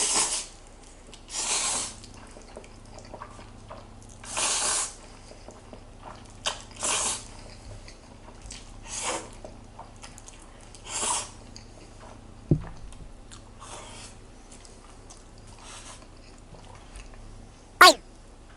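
A person eating black bean noodles: short noisy slurps every two to three seconds. There is a soft knock past the middle, and one sharp click near the end is the loudest sound.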